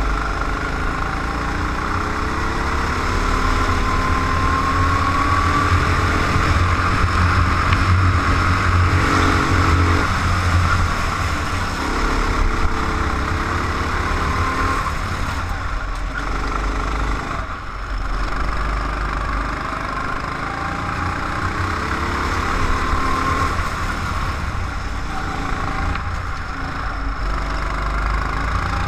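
Racing car's engine heard from an onboard camera, running hard with its pitch rising and falling as it is revved up and eased off around the circuit.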